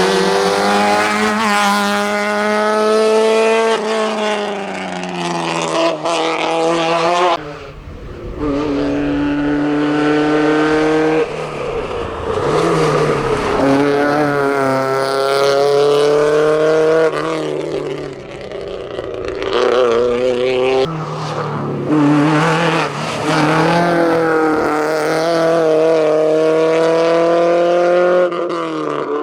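Rally-prepared hatchback engines at full throttle on a hillclimb, rising in pitch through each gear and dropping back at the shifts. For the first seven seconds or so it is a Seat 127; after a break about 7.5 s in it is a Ford Fiesta XR2.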